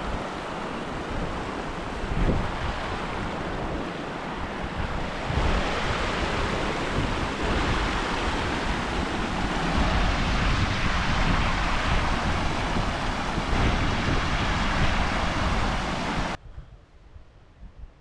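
Wind buffeting the camera's microphone: a steady rushing noise with a gusty low rumble, cutting off suddenly near the end.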